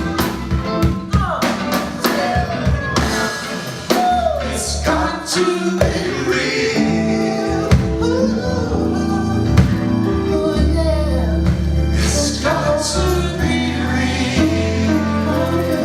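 Live band playing amplified through a PA, with drum kit, held bass notes and singing over the top.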